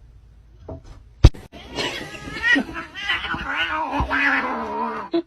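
A sharp click about a second in, then a pet animal's drawn-out, wavering vocal cry lasting about three and a half seconds.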